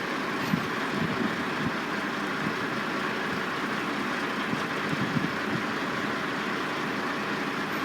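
Steady din of a railway construction site: truck and crane engines running, holding an even level.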